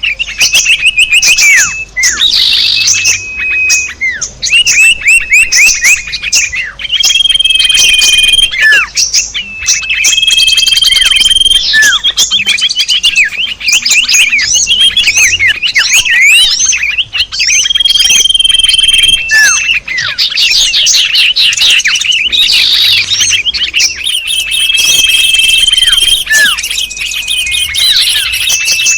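Mixed recording of small songbird calls played as a bird-trapping lure: dense overlapping chirps, fast trills and downward-sweeping whistles, with a held high whistle recurring every few seconds.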